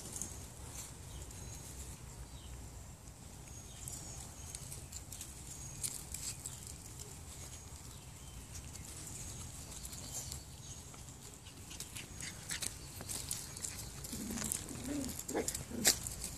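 Eight-week-old puppies moving about, with scattered light clicks and patter over a steady low hum. Near the end come a few short whines or yips.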